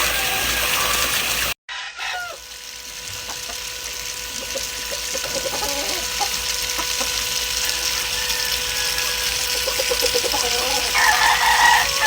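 Chickens clucking over a steady background hiss, with a rooster crowing near the end. The sound drops out for a moment about one and a half seconds in.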